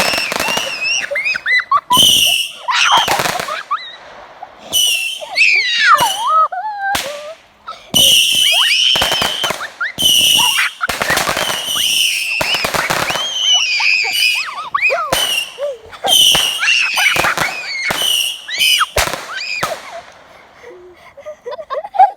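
Fireworks going off in quick succession: sharp bangs and crackles mixed with repeated shrill whistling tones, dying down near the end.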